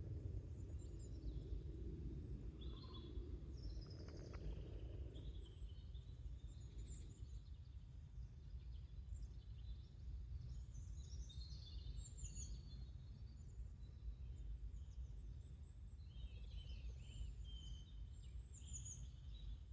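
Quiet garden ambience: a steady low rumble under scattered faint, high-pitched chirps and twitters of small birds, busier in the middle and near the end. A soft low murmur sits under it for the first few seconds.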